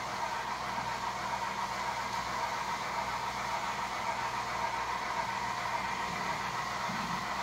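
Steady mechanical hum holding a constant low tone, with an even hiss over it.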